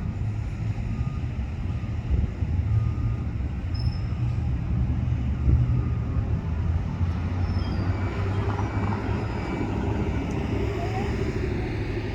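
Steady low rumble of vehicle traffic, with a few faint, short, high chirps scattered through it.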